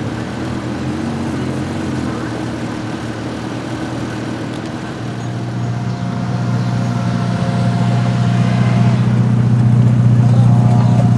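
Car engine running at a steady low pitch in street traffic, growing louder over the second half.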